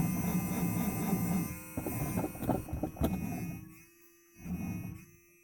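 Cold V8 of a 1976 Cadillac cranked by its starter on a frozen battery, turning over unevenly without firing, until the cranking stops about three and a half seconds in. It is too cold to catch without fuel poured into the carburettor. A steady electrical hum sounds along with it.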